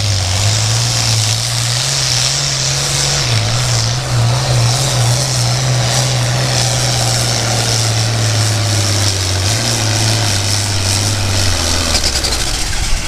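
International Harvester 966 pulling tractor's engine running hard at full load during a pull. Its pitch falls and it fades near the end as the pull runs out.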